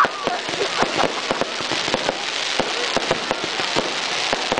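Fireworks going off: a rapid, irregular run of sharp bangs and cracks over a continuous crackling hiss.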